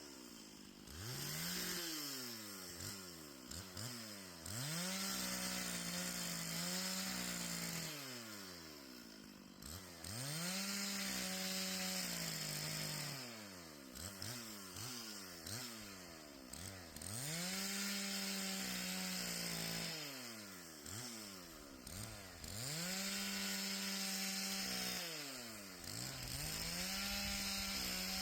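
Chainsaw revving up and held at full throttle for a few seconds at a time, then dropping back toward idle, about five times over. It is bucking a wind-fallen tree into firewood lengths.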